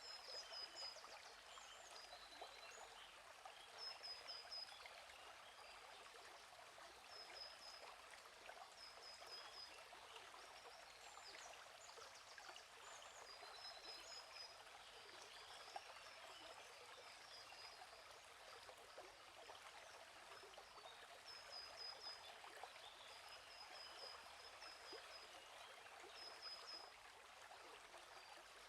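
Stream flowing steadily with a soft, even rush, with small birds chirping short runs of quick high notes every few seconds.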